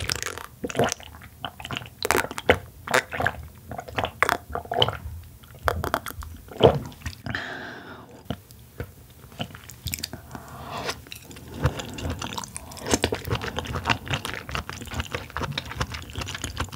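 Close-miked eating sounds: a sip of pink lemonade at the start, then chewing of steamed oysters with many short mouth clicks and smacks.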